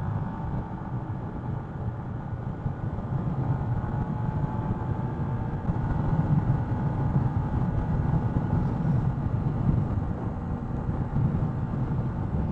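125cc motorcycle engine running steadily while riding along at road speed, mixed with wind and road rumble. The sound grows a little louder about four seconds in.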